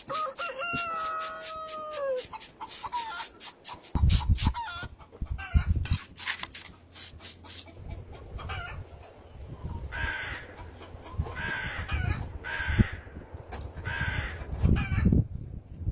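Chickens calling: a rooster crows once, a long held note that drops in pitch as it ends about two seconds in, followed by short repeated clucking calls. Low thuds come in from about four seconds in.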